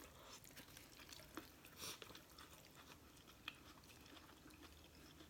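Faint eating sounds over near silence: quiet chewing of instant noodles, a brief soft hiss about two seconds in, and a few small clicks.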